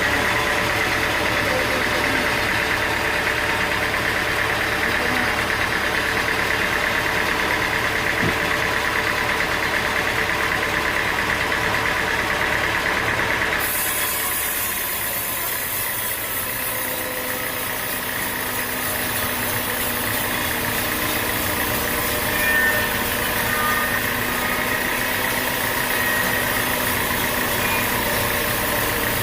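Sawmill engine and machinery running steadily. About fourteen seconds in the sound changes abruptly and the high hiss gets louder.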